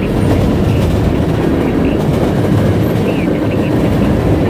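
CN freight train rolling past, a loud, steady rumble of cars on the rails.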